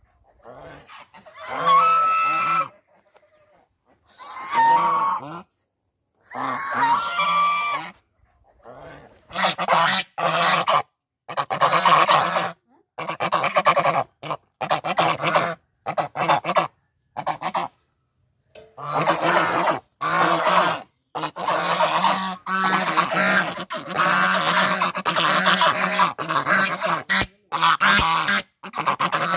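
Domestic geese honking: a few separate calls at first, then from about nine seconds in several geese honking together almost without pause.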